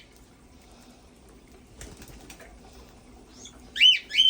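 A pet parrot gives two short, loud chirping calls near the end, each rising and then falling in pitch. Before that there is only a faint room hum and a few soft taps.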